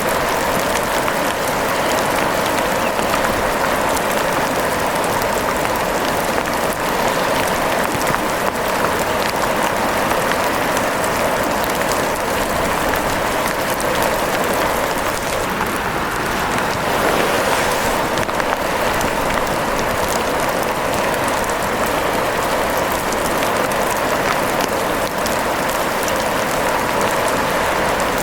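Steady rain falling, with fine crackling from a wood fire mixed in.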